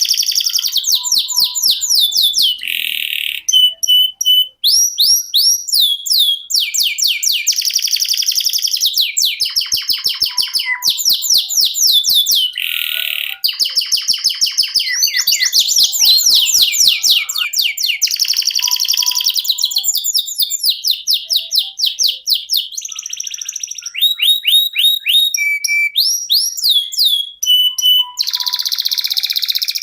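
Canary singing a long, unbroken rolling song: fast trills of rapidly repeated sweeping notes, one trill running into the next, with short steady whistled notes between them.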